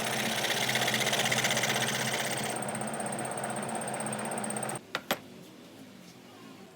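A small electric power tool running steadily on wood, then switched off about five seconds in, followed by two sharp clicks.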